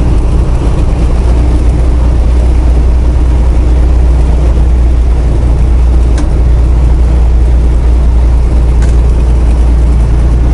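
Semi truck's diesel engine and road noise droning steadily in the cab at highway speed, a loud low rumble.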